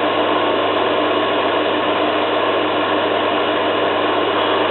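Zanussi FLA1002W front-loading washing machine spinning a duvet load, the drum and motor running steadily with a steady hum underneath.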